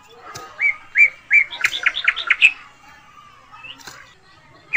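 A bird chirping: a quick run of short, high notes, some with an upward flick, for about two seconds, then quieter. A single soft knock comes just before the chirping.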